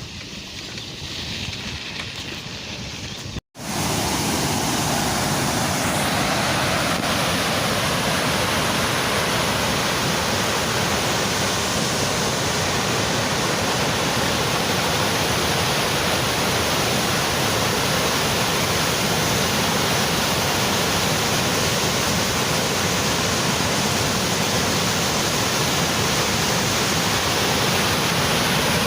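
Waterfall rushing in a steady, loud roar of falling water. After a short break about three and a half seconds in it comes back louder and closer.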